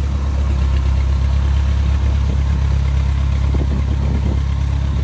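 Engine running steadily with an even, deep hum.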